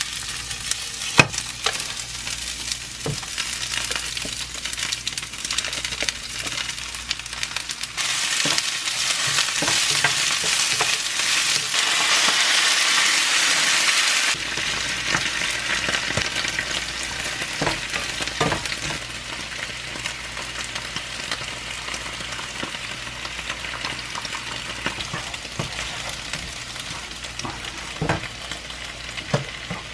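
Sundae (Korean blood sausage) and cabbage sizzling in a hot nonstick frying pan, with scattered clicks and knocks from a wooden spatula stirring against the pan. For several seconds in the middle the sizzle swells to a loud hiss as a little water goes into the pan, then drops back suddenly.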